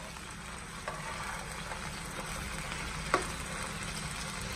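Beef seekh kebabs sizzling steadily as they shallow-fry in oil in a nonstick pan, while being turned over with metal tongs; a faint click about a second in and a sharper click about three seconds in as the tongs knock the pan.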